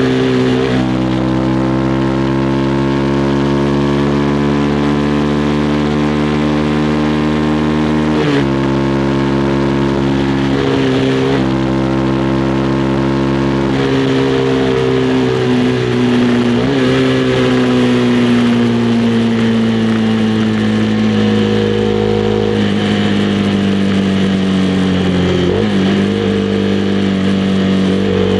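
Honda CB300R's single-cylinder engine running under way at a steady, slowly changing pitch, its note dipping and recovering briefly a few times, with steady wind and road hiss.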